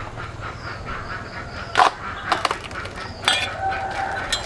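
A few sharp knocks or cracks, irregularly spaced, over a steady low background hum.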